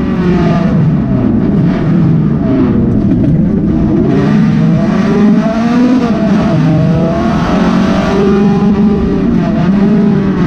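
Honda del Sol track car's four-cylinder engine heard from inside the stripped cabin, revving hard with its pitch rising and falling several times as the car is driven around the circuit.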